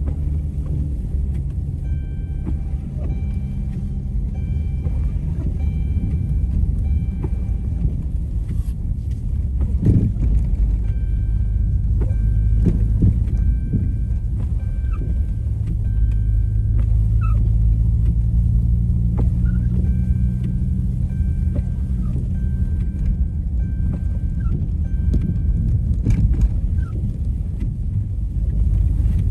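V6 Dodge Charger driving on a snow-covered road, heard from inside the cabin: a steady low engine and road rumble. Faint high tones repeat at times over it.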